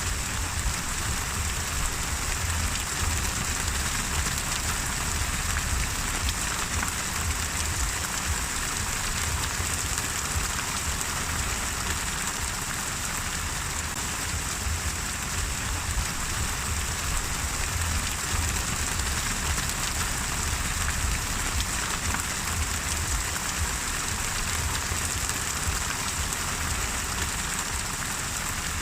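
Steady rain falling, a continuous even patter of drops.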